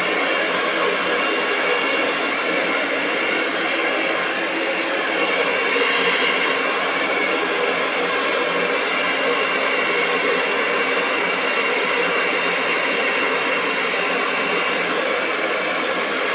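Hair dryer running steadily: a continuous rush of blown air with a faint, even motor whine.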